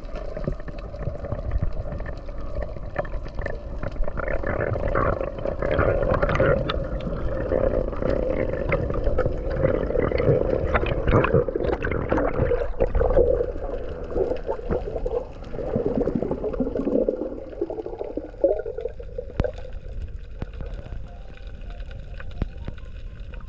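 Underwater sound: gurgling water noise with a steady droning hum that dips in pitch and comes back up about three-quarters of the way through.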